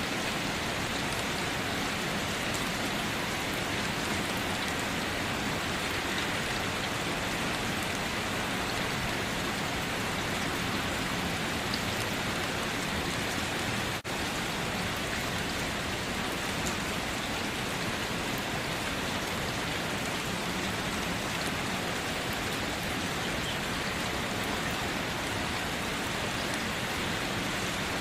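Steady, even rainfall hissing without pause, with a momentary dip in level about halfway through.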